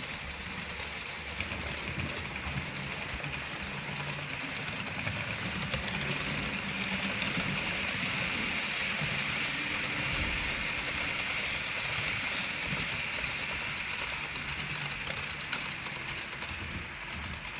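Model diesel train running along the layout track, its rolling noise and motor hum growing louder to a peak about halfway and then fading as it passes.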